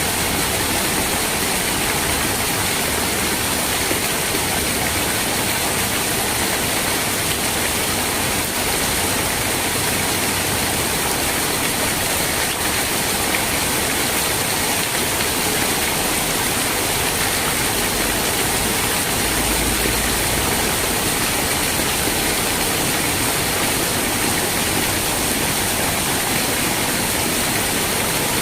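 Steady heavy rain: a dense, even hiss that holds without a break.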